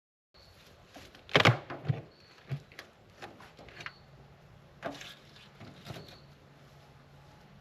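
Wooden beehive parts knocking and clicking as a hive is opened, a few sharp knocks with the loudest about a second and a half in.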